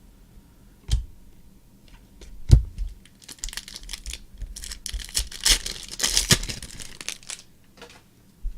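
A trading-card pack's wrapper being torn open and crinkled, in a dense crackly run of about four seconds in the middle, after two short knocks.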